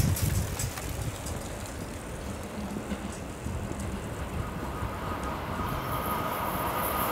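Seibu 30000 series electric commuter train approaching, its running sound growing steadily louder. A steady whine comes in about halfway and a high hiss joins near the end.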